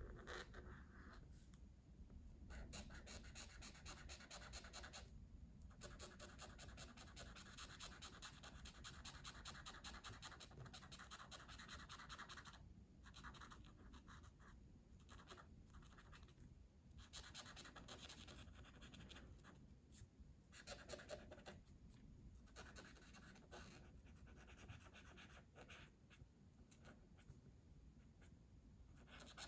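Faint, quick back-and-forth colouring strokes scratching on paper, in runs of a few seconds with short pauses between.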